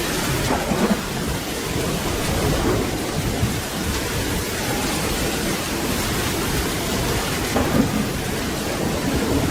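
Steady heavy rain with a low rolling rumble of thunder underneath, swelling slightly about a second in and again near the end.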